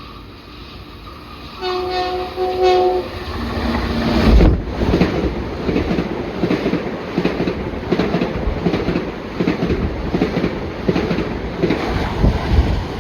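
Long Island Rail Road train horn sounding two short blasts, then the train passing close by at speed with a steady rumble and rhythmic wheel clacks over the rail joints.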